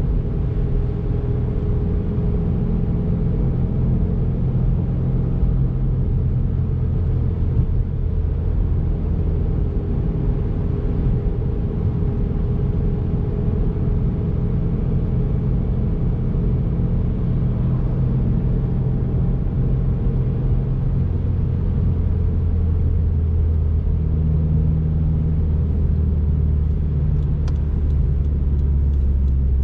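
2019 Subaru WRX's turbocharged flat-four engine running steadily while driving, over a constant tyre and road noise. About two-thirds of the way through its note drops lower and gets stronger, then the pitch starts to rise right at the end.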